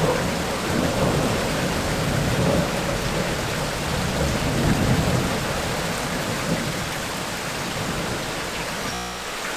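Heavy tropical rain pouring steadily, with thunder rumbling low underneath that eases off in the second half.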